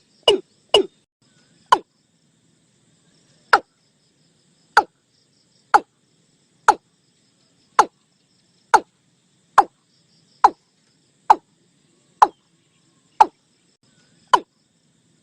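Watercock calling: a long series of short notes, each dropping in pitch, two close together at first and then about one a second. Faint crickets or insects trill behind.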